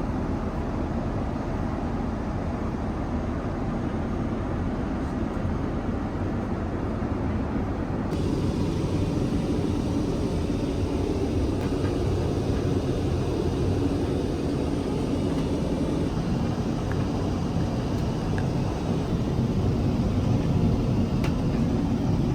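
Steady airliner cabin noise: an even, low rumble of engines and airflow, slightly louder after about 8 seconds in.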